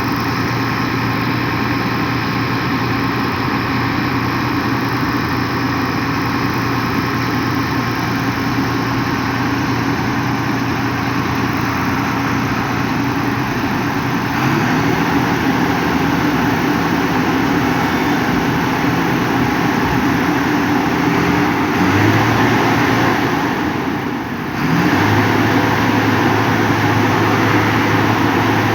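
Concrete mixer truck's diesel engine running steadily. Its pitch steps up about halfway through, dips briefly near the end, then comes back up.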